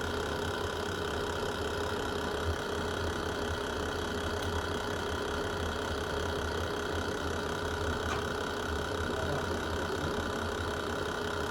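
Wood fire burning in a fireplace: a steady low roar with a constant hum and a few faint pops.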